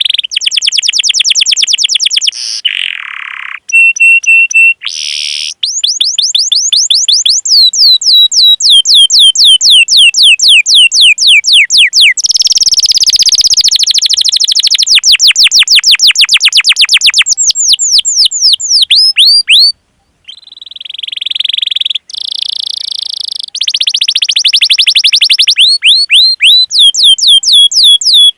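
Domestic canary singing vigorously: long runs of rapidly repeated sweeping chirps ('cuit cuit'), the phrases changing every few seconds between fast rolling trills and slower series of about three or four notes a second. The song breaks off briefly about two-thirds of the way through, then resumes.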